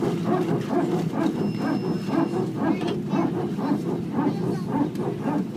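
Airbus A319 power transfer unit (PTU) running in its rapid, repeating bark, about four to five pulses a second, typical of a single-engine taxi after landing. A thin high tone sounds briefly in the middle.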